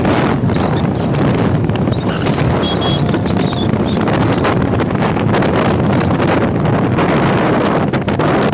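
Heavy wind buffeting the microphone over a steady low rumble, as when filming from a moving vehicle, with brief high squeaks between about half a second and four seconds in.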